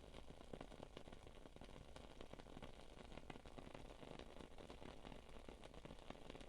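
Wooden-wick candle burning with faint, irregular crackles and pops, like a small campfire.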